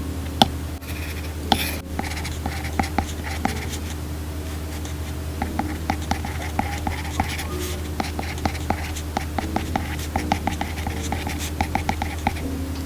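Apple Pencil (2nd generation) tip tapping and writing on an iPad Pro's glass screen, a string of irregular light clicks that come more thickly in the second half.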